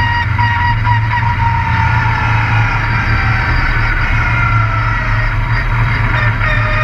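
Race truck's engine running hard, heard through an on-board camera, with its whine easing slightly lower over the first few seconds.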